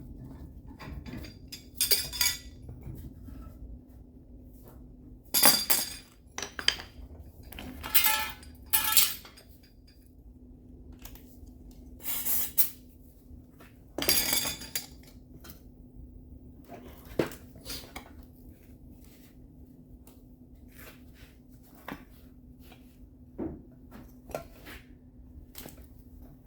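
Metal tools clinking and knocking against sheet metal during auto-body work, in irregular single strikes and short clusters, louder in the first half. A steady low hum runs underneath.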